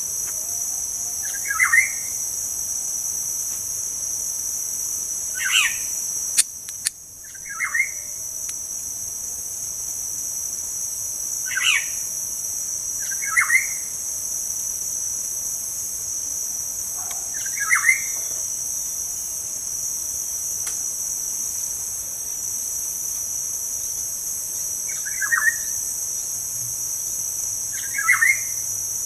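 Bird calling in short, falling two-part phrases, a pair about every six seconds, over a constant high drone of insects. A click and a brief drop in the background come about seven seconds in.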